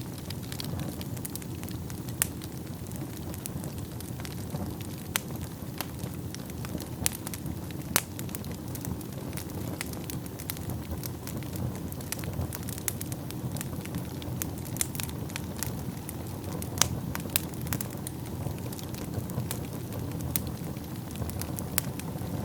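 Wood fire burning in a fireplace: a steady low rush of flames with sharp crackles and pops at irregular intervals.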